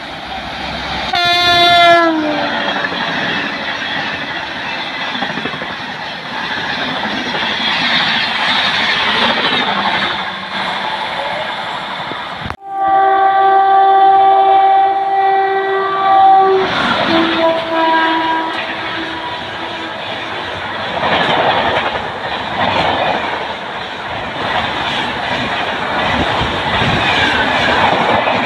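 Indian Railways express trains hauled by WAP-7 electric locomotives passing at speed. About a second in, a locomotive horn sounds and drops in pitch as it goes by, followed by the rush and rattle of the coaches. After an abrupt break, another horn blows a steady chord for about four seconds, then gives a shorter note, and the next train rushes past with wheel clatter.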